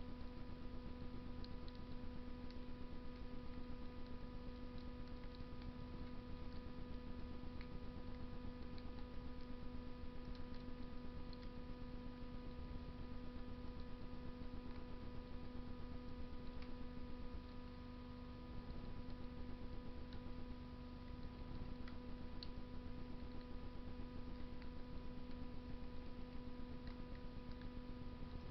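Wood fire burning in a Russian masonry stove: a low steady rush with faint, scattered crackles, over a steady electrical hum.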